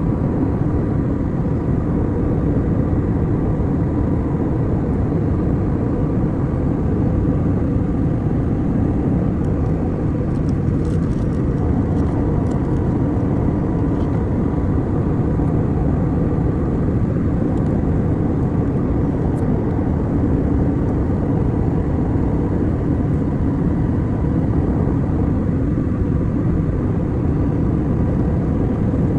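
Steady low rumble inside an airliner cabin in flight, even and unchanging, with a faint steady hum above it.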